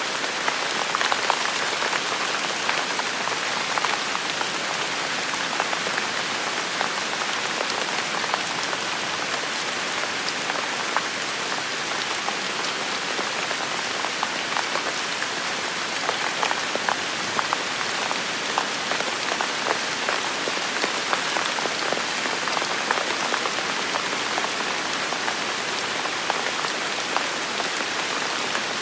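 Steady heavy rainfall, a dense even hiss with many sharp drop impacts ticking through it.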